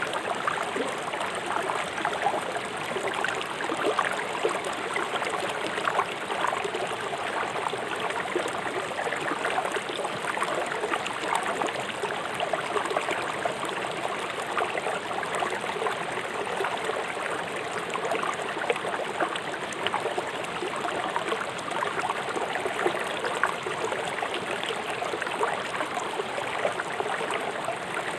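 River water flowing swiftly over stones: a steady, dense rushing with many small splashes and gurgles.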